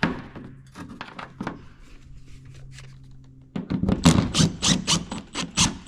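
Small impact driver with a socket tightening a nut on a bolt. Its motor spins steadily for about three seconds, then it breaks into a loud run of rapid hammering knocks as the nut seats.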